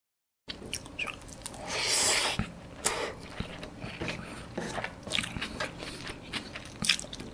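Close-miked chewing of roast chicken and rice eaten by hand: wet mouth clicks and smacks, with a louder hiss-like sound about two seconds in. The sound cuts in after half a second of silence.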